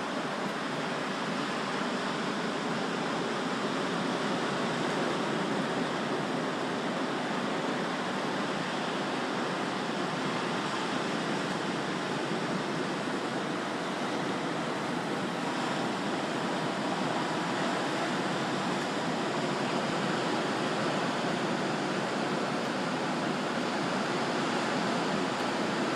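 Ocean surf: a steady, even rush of breaking waves with no single crashes standing out and the level barely changing.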